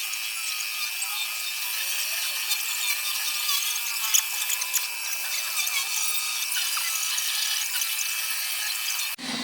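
A high-pitched power tool working wood, a steady whine with scraping and ticking as it cuts. It stops abruptly near the end, and a lower steady hum takes over.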